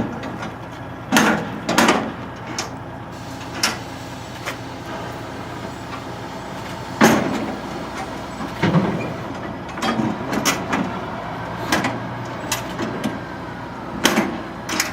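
A truck engine running steadily, with scattered knocks and bangs over it, about a dozen, the loudest about a second in, about seven seconds in and near the end.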